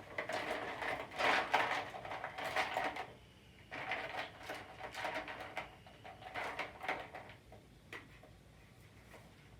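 A gloved hand pushing into a bowl of ice water: ice cubes clicking and water sloshing in two bouts, the second ending about two seconds before the end.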